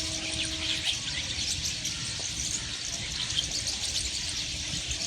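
A large flock of small birds in a tree chirping together, a dense, continuous chatter of many overlapping high calls. A steady low hum sounds under it for about the first second.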